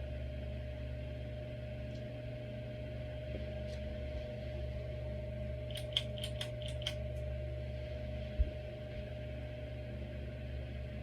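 Hampton Bay Grayton II ceiling fan running steadily, its motor giving a low hum with a faint steady whine. About six seconds in comes a quick run of about six light ticks, and a little later a single low thump.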